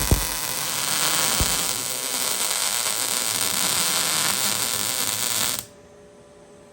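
MIG welding arc from an Everlast Storm 215C welder: a steady hiss with a few sharp pops as the arc strikes, stopping suddenly about five and a half seconds in.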